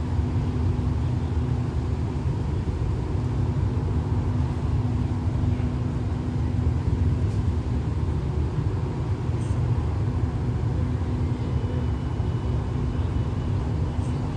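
Steady low rumble and hum of a stationary diesel passenger train idling beside the platform.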